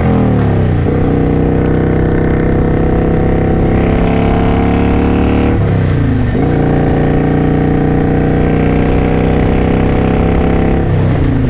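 2009 Kawasaki Vulcan VN900 Classic LT's V-twin engine accelerating under load. Its pitch climbs steadily in each gear and drops sharply at three upshifts: about a second in, around six seconds in, and near the end.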